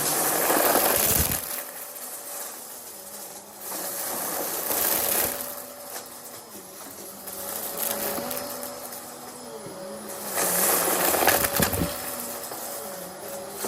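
Vacuum cleaner running with a steady motor whine, its sound swelling and easing every few seconds as it is pushed back and forth.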